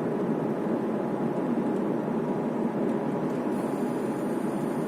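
Steady road and tyre noise heard inside the cabin of a moving car.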